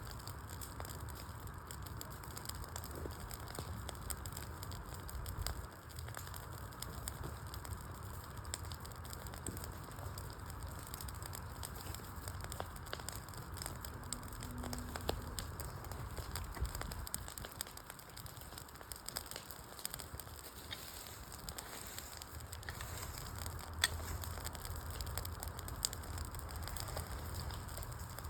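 Wood fire burning, a steady hiss dotted with small crackles and snaps of burning logs, with one sharper pop near the end.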